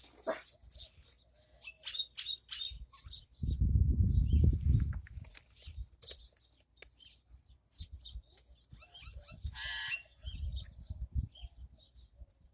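Pet birds chirping and tweeting with many short, high calls, and one louder harsh call about two-thirds of the way through. A low rumble of over a second about four seconds in is the loudest sound.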